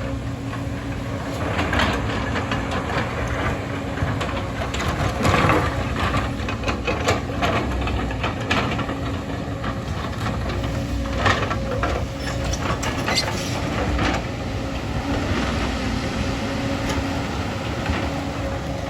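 Diesel construction machinery running steadily, with a low rumble and a held engine tone, while metal parts clank and knock irregularly throughout.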